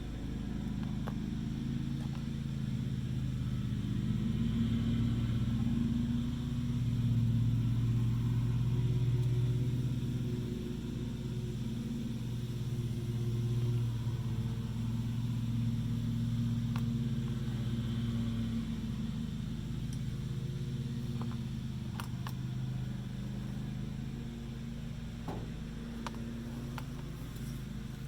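An engine running steadily, a low rumble whose pitch drifts slightly, with a few light clicks near the end.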